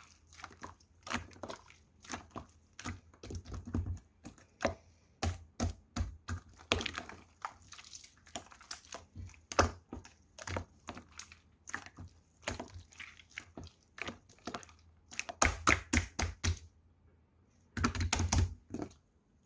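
Pink slime being squished and pressed by hand, giving irregular crisp clicking and popping sounds in quick clusters, with a short pause near the end.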